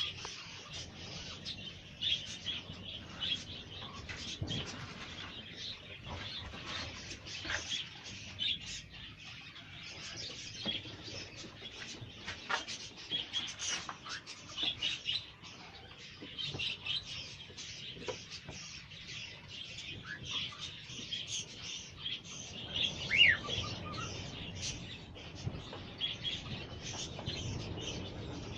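A group of cockatiels chirping and calling over one another without a break, with one louder rising whistle a little past the two-thirds mark.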